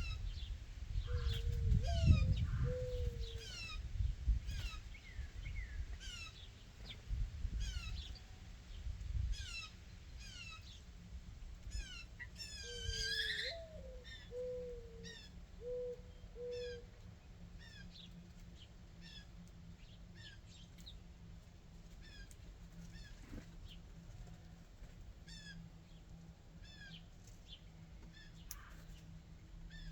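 Backyard birds calling: a steady series of short, high, falling chirps about once a second, with a louder rising call a little before halfway. A low cooing call comes twice, and a low rumble runs under the first third.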